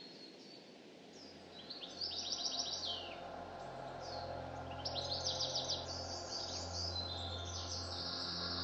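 Birds chirping in quick trills of repeated notes, in two main bouts, over a low steady hum that comes in about a second in.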